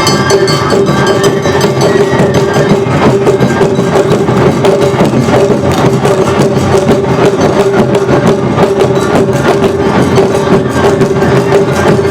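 Awa Odori festival music: a fast, driving two-beat rhythm on Japanese taiko drums and the clacking kane hand gong, with a steady held tone over it.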